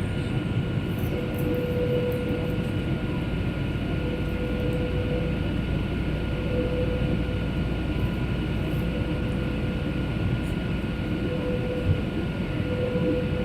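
Airliner cabin noise in flight: a steady drone of engines and airflow with a few thin, steady whining tones over it, and one small knock near the end.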